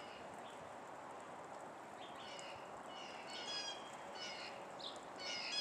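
Several small songbirds chirping and calling, the calls coming thicker from about two seconds in, over a steady background noise.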